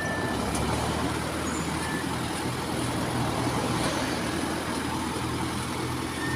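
Heavy truck's engine running steadily under load as it is driven up a muddy hill.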